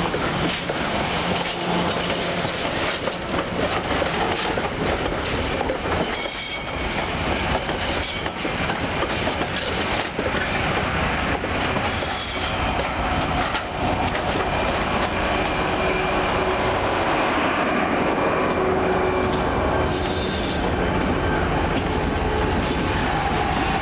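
Passenger excursion train rolling past close by: a steady rumble of wheels on rail with rail-joint clicks, and brief high wheel squeals three times.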